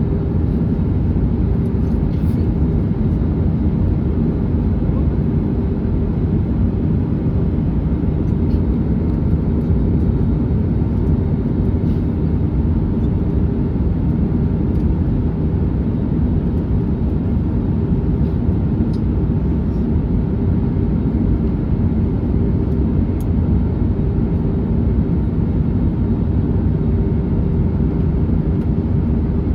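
Steady cabin noise inside an Airbus A321neo on its approach: an even, low rush of airflow and engine sound with a faint steady hum and no change throughout.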